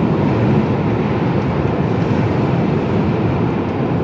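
Steady engine and road noise inside the cab of a Mercedes-Benz Actros lorry driving at a constant speed.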